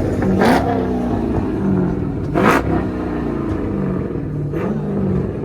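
A 5.7-litre Hemi V8 being revved in blips at idle, its pitch rising and falling, with the sharpest revs about half a second and two and a half seconds in.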